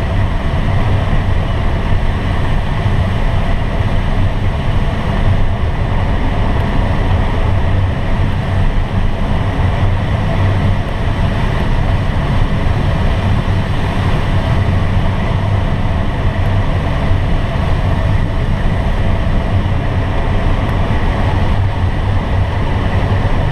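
Steady airflow and engine noise inside a glider cockpit on aerotow behind a tow plane: a continuous rush with a low drone and a faint steady high tone, no change throughout.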